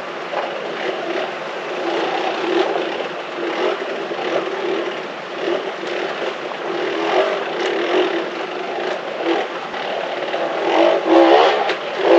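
Dirt bike engine running under way, its revs rising and falling, louder near the end.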